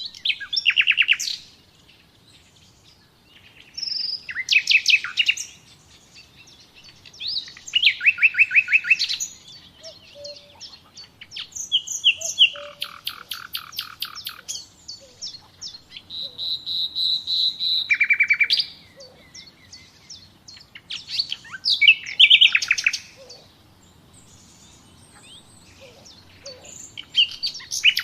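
A songbird singing: short phrases of rapid trilled notes, each a second or two long, repeated every few seconds.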